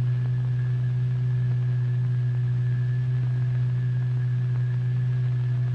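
A steady low electronic tone with faint overtones and a thin high whine above it, holding unchanged. This is the sound of the oscillator driving the vibration that stirs the fluid into pairs of eddies.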